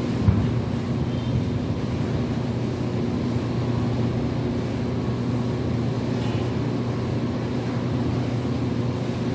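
A steady engine drone with an even low hum, and one short knock just after the start.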